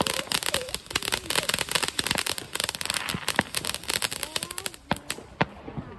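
Fireworks going off in a rapid stream of sharp bangs and crackling pops, thinning out near the end.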